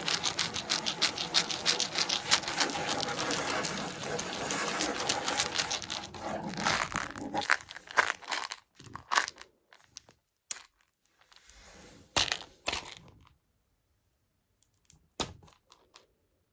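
Plastic container of Choco Baby chocolate pellets being tapped and handled for ASMR: a fast, dense run of small clicks for about seven seconds, then scattered single clicks and short rattles with pauses between.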